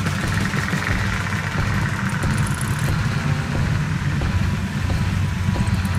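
Dirt bike engines running, a steady low rumble.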